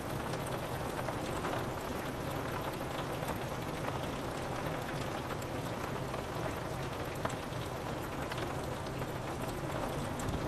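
Steady rain falling on a window pane, a constant hiss with scattered sharp drop taps.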